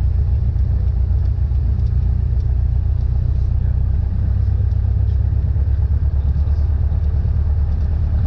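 Cessna 172N's four-cylinder Lycoming engine and propeller running steadily with a deep, even drone.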